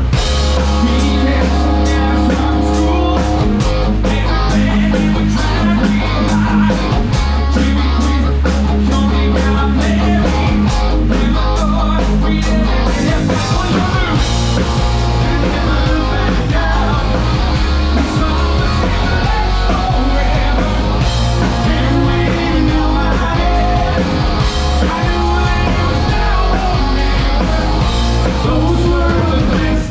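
Rock band playing a song live, with guitar, bass and drum kit and a singing voice.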